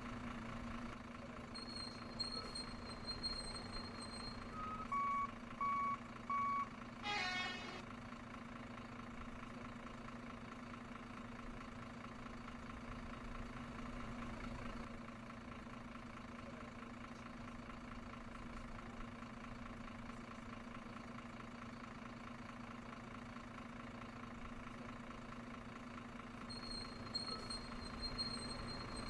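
Remote-control truck or bus sound module running: a steady simulated engine idle hum, with three reversing beeps about five seconds in and a brief louder pitched blast just after. A thin high whine sounds briefly twice.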